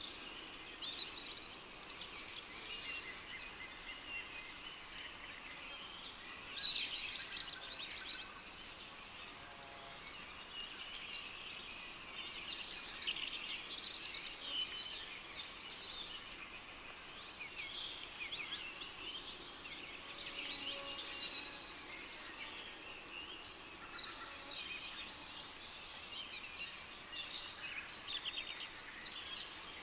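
Rainforest ambience: a cricket chirping in short, even pulses, about two to three a second, breaking off briefly about two-thirds of the way through, while several birds call and trill over it.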